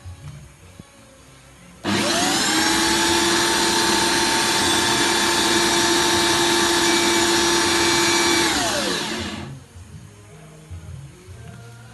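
Electric drill rigged as a coconut grater, switched on about two seconds in: its motor spins up with a rising whine, runs steadily for about six seconds, then is released and winds down.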